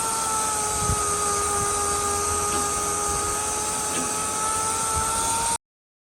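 An electric power tool motor running steadily with a high whine and a hiss, cut off abruptly near the end.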